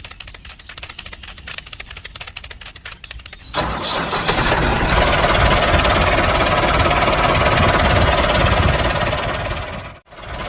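Small engine of a handmade miniature Massey Ferguson 385 tractor being cranked, with rapid even ticking for about three and a half seconds. It then catches and runs steadily and loudly.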